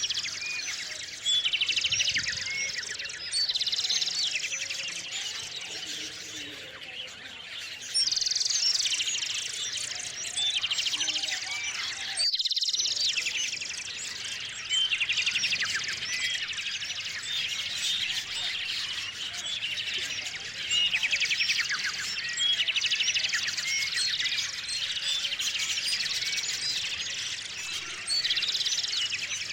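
A chorus of small songbirds chirping and chattering, with many overlapping calls and louder bursts of rapid chatter every few seconds. The sound drops out for a moment about twelve seconds in.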